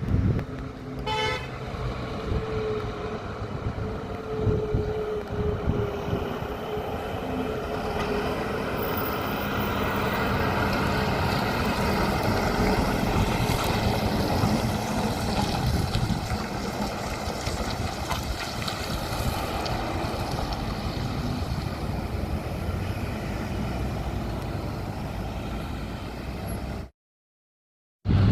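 Heavy truck driving past with steady engine and tyre noise; a short horn toot about a second in, and a tone that slides slowly down in pitch over the next few seconds.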